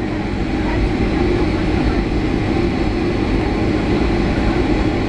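Steady cabin noise inside a Boeing 757-300 rolling on the ground: a low rumble and rattle from the wheels and airframe over an even engine hum.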